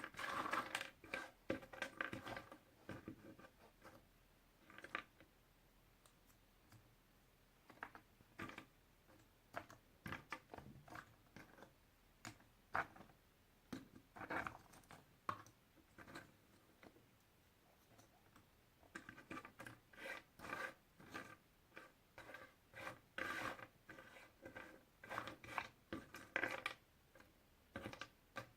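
Puzzle pieces being handled: scattered small clicks, taps and rustles. They come thick at the start and again through the last third, with only a few taps in between.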